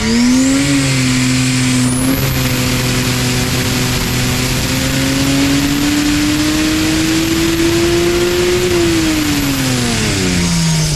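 Turbocharged 3.2-litre stroker 2JZ inline-six on an engine dyno, running a pull on a Precision 6870 Gen 2 turbocharger. The engine revs up at the start, holds briefly, then climbs steadily in pitch for several seconds before dropping back near the end, with a high whine rising and falling with it.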